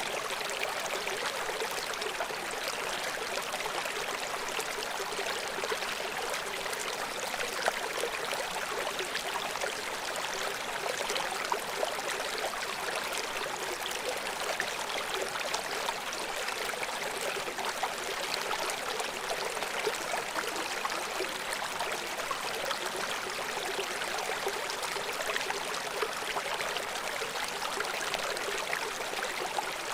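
River water flowing from a waterfall: a steady rush of water with small, irregular splashes.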